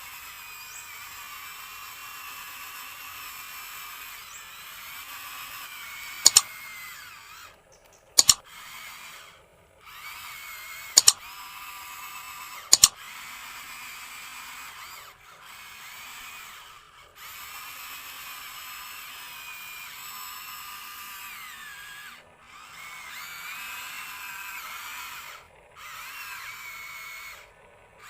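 Small electric motors and gearboxes of a remote-control toy construction vehicle whining, stopping and starting again with the pitch rising and falling as the controls are worked. Four loud sharp clicks break in during the first half.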